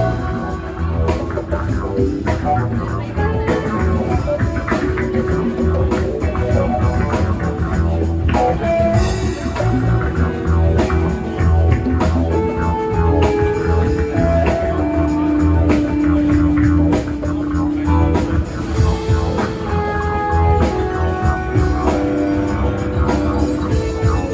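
A live rock band playing an instrumental passage: electric guitar lines over bass and a drum kit.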